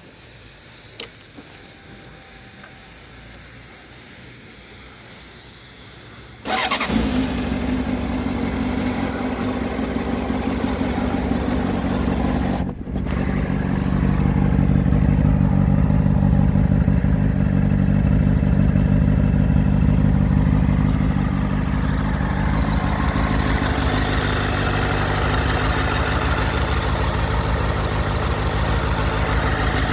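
2004 Honda CBR600RR's inline-four engine, through its stock exhaust, starting up about six seconds in and then running at idle. The level is a little raised for several seconds in the middle and eases back down near the end.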